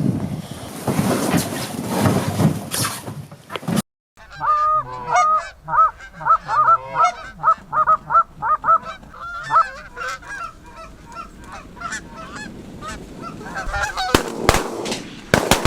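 Wind buffeting the microphone, then, after a brief cut about four seconds in, Canada geese honking many times in quick succession for about ten seconds as a flock works toward the decoys; the wind noise rises again near the end.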